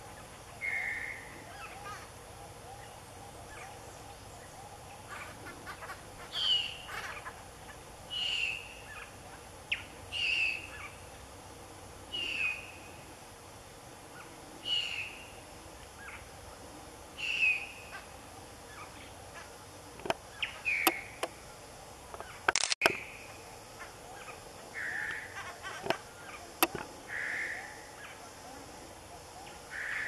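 A bird calling one short, slightly falling note over and over, about every two seconds. A few sharp clicks and one loud crack come about two-thirds of the way through.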